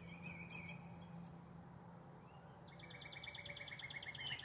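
Songbirds calling faintly: a short warbled call at the start, then from about three seconds in a rapid trill of evenly repeated notes. A faint steady low hum sits underneath for the first half.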